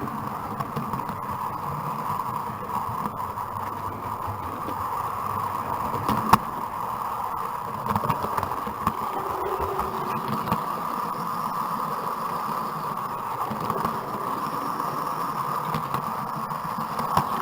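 00 gauge model train running along the track, heard from a camera riding on the train: a steady rolling rumble with a mid-pitched whirr, and a sharp click about six seconds in.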